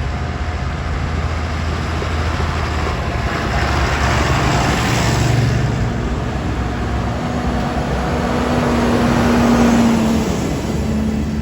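Vintage tractor engines running as tractors drive past on the road. Two louder swells as machines go by, about five seconds in and again near the end.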